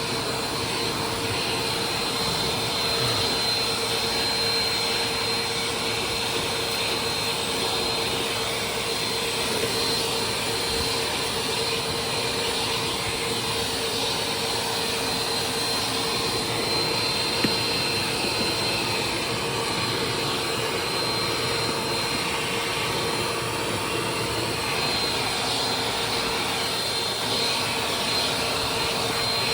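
Vacuum cleaner running steadily, a constant rushing noise with a steady motor whine.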